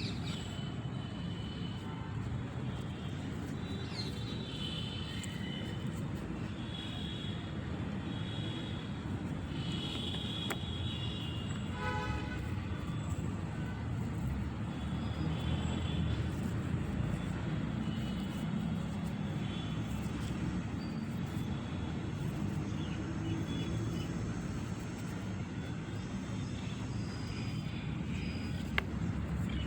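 Steady low rumble of outdoor background noise, with short high chirps scattered through and a brief pitched call about twelve seconds in.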